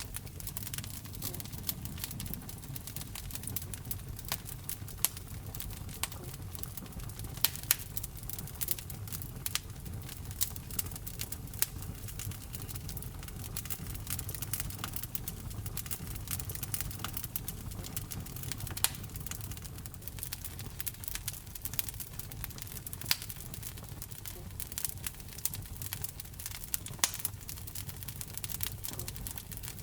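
Wood fire burning in a fireplace, crackling: frequent irregular sharp pops and snaps, a few of them louder, over a low steady rumble of the flames.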